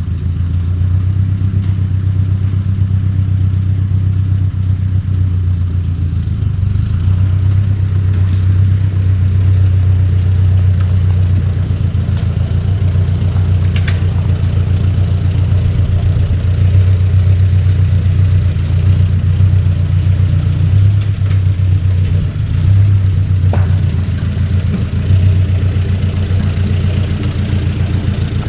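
1953 Ford Jubilee tractor's four-cylinder gasoline engine running steadily as the tractor is moved, with a couple of brief dips about two-thirds of the way through.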